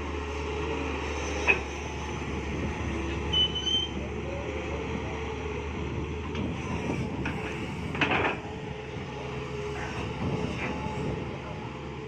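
Mini excavator engine running steadily while it digs, with sharp clanks about a second and a half in and again around eight seconds, and a brief high squeal near three and a half seconds.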